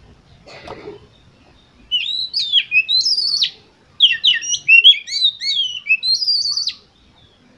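Oriental magpie-robin (kacer) singing two quick runs of varied, gliding whistled notes, with a short pause between them.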